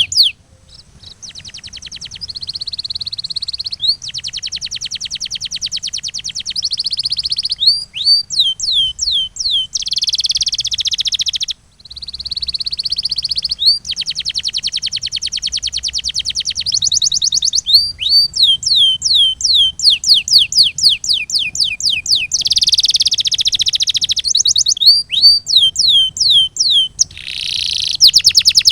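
Canary singing: rapid rolling trills alternate with runs of separate downward-sliding whistled notes, each phrase lasting a few seconds, with a short break about twelve seconds in.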